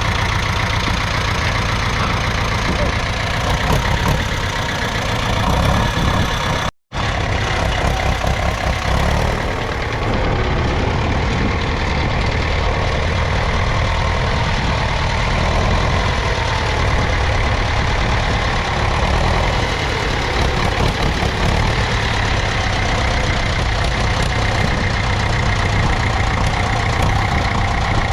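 1969 Same Leone 70's 3.4-litre four-cylinder diesel engine running steadily, with a brief dropout about seven seconds in.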